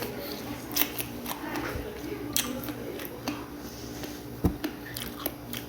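Eating sounds close to the microphone: scattered sharp clicks and smacks of chewing and biting, over a steady low hum.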